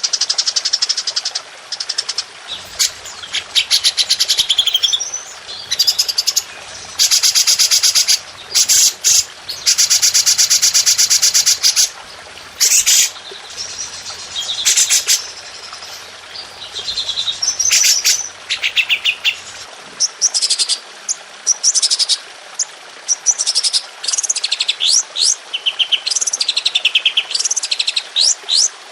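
Songbirds singing in rapid-fire bursts, the dense machine-gun-like trills called 'tembakan' in Indonesian songbird training. Long dense trills come in the first half, then shorter bursts mixed with quick slurred whistles.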